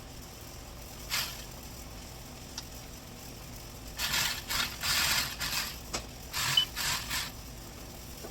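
Hand tools working on car parts: a short scrape about a second in, then a run of rattling, scraping strokes from about four to seven seconds in.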